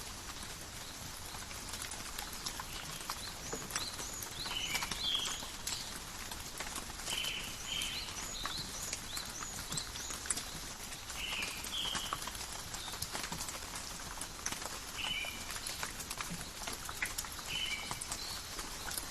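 Steady light rain falling in a forest, with a constant hiss and dense drips and patters. Short paired chirps repeat every few seconds over it, with scattered thin high chirps.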